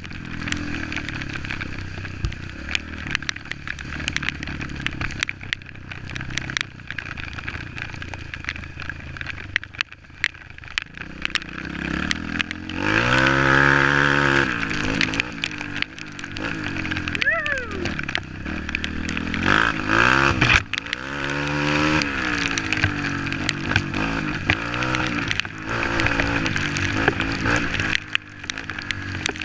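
Off-road trail motorcycle engine running and revving up and down as it rides, with two stronger rises in revs around the middle.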